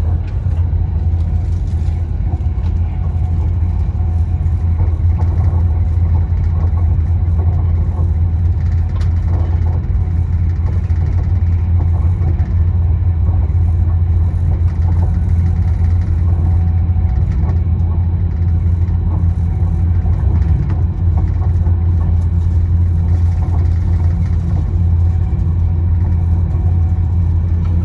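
Steady low rumble of a train running along the track.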